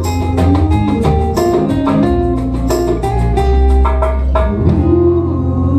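Live acoustic band music: strummed acoustic guitar with a steady low bass line underneath.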